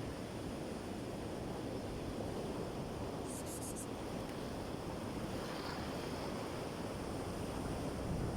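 Sea waves washing in steadily, with wind rumbling on the microphone. Four quick faint high ticks about three seconds in.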